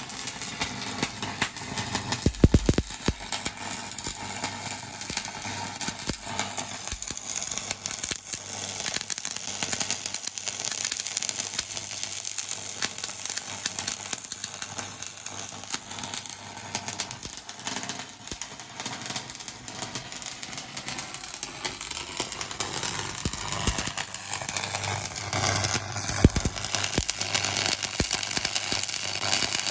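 Stick welding with a 6013 mild-steel electrode, the arc crackling steadily as the root pass is run vertical up-hill (3G position).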